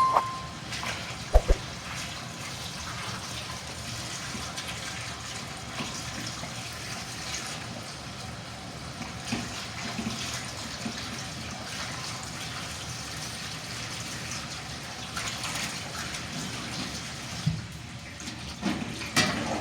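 Water running steadily, with a sharp knock about a second and a half in and a few clatters near the end.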